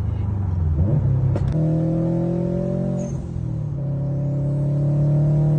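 Subaru EJ-series flat-four boxer engine with its characteristic off-beat rumble. It revs up about a second in, then holds a steady engine note that dips briefly around three seconds before settling again.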